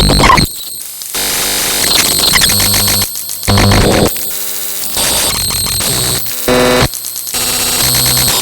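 Loud electronic static and harsh noise effects, cutting abruptly from one burst to the next every second or so, some with a buzzing tone in them.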